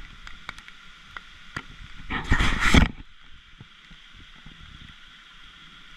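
Rain falling and dripping through a tree, heard as scattered sharp ticks of drops over a steady hiss. About two seconds in, a brief loud rushing noise lasts under a second.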